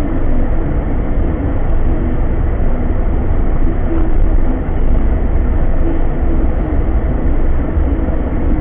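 A car driving, a steady low rumble of road and engine noise with no clear changes.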